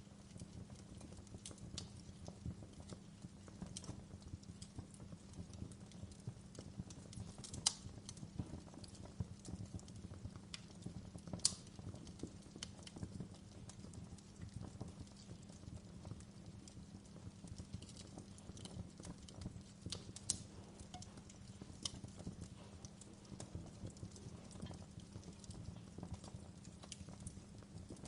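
Wood fire crackling in a fireplace: a dense, irregular run of small pops and snaps over a low rumble, with two louder pops, one about eight seconds in and another a few seconds later.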